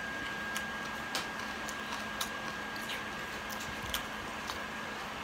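Chewing a mouthful of cheeseburger: soft irregular mouth clicks and smacks, a few a second at most, over a steady background hiss.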